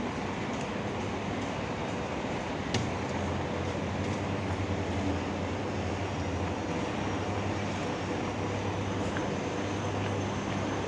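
Steady vehicle running noise with a low engine hum, and a single sharp click about three seconds in.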